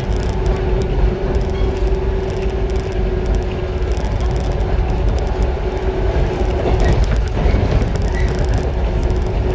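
JR 115-series electric multiple unit running on the line, heard from inside the passenger car: a steady low rumble of wheels on rail with a steady tone through it and faint clicks from the rails.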